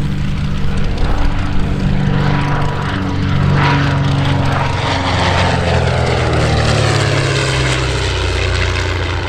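Twin-engined de Havilland DH.88 Comet racer flying past, its two Gipsy Six piston engines and propellers running steadily. The engine pitch drops as it passes, about halfway through.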